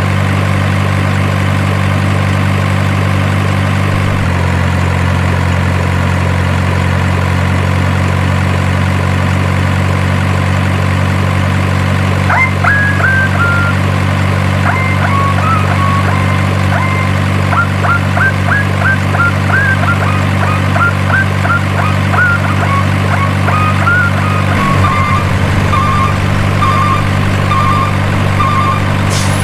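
Steady, even drone of a diesel truck engine idling, with a slight change in tone about four seconds in. From about halfway on, short high chirping notes come and go over it.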